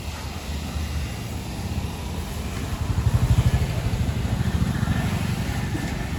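Restored Rajdoot 175's two-stroke single-cylinder engine running with a rapid pulsing exhaust. It rises in a brief rev about three seconds in, then settles back.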